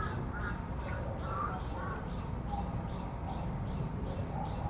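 Steady high-pitched insect trilling, with short bird chirps in the first two seconds or so, over a low rumble.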